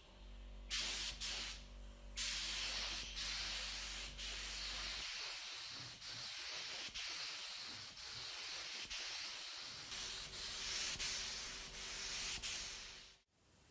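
Steady rough hiss of abrasive surface work on restoration parts, broken by a couple of short pauses early on. Under it runs a low hum that drops out about five seconds in and comes back about ten seconds in. The hiss stops abruptly just before the end.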